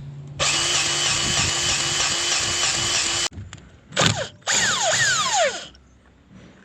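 Battery-powered grease gun running, pumping grease into a driveline grease fitting: one run of about three seconds, a short blip, then a second run of about a second whose whine falls in pitch as the motor winds down.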